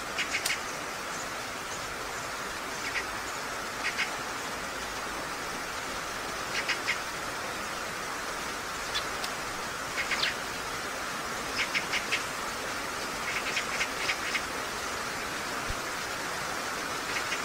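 Birds chirping in short quick runs of two to four notes every few seconds, over a steady outdoor hiss.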